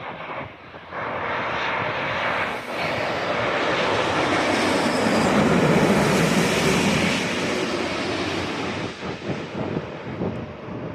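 Jet engine noise of a Japan Airlines Airbus A350-941 landing, its Rolls-Royce Trent XWB turbofans swelling to a peak about halfway through and then fading as it passes.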